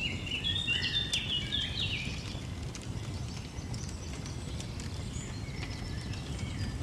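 Songbirds chirping, a quick run of short notes over the first two seconds and then fainter scattered calls, over the soft crackle of a fireplace and a steady low rumble.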